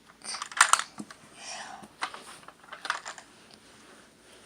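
Clicks and rattles of a plastic toy recycling truck being handled, with a short rustle about a second and a half in.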